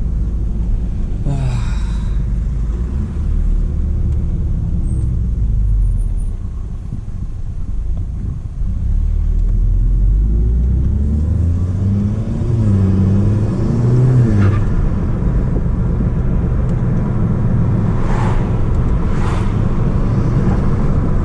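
Audi S3 8P's turbocharged 2.0 TFSI four-cylinder with an aftermarket downpipe, driving on a mountain road; the engine note rises and falls with throttle and gear changes, most clearly about halfway through, with a few brief hiss-like noises.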